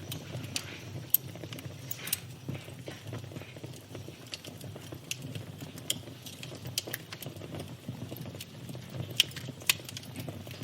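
Wood fire crackling, with irregular sharp pops over a low, steady rumble of flames; a few pops stand out louder, about a second in, at two seconds and twice near the end.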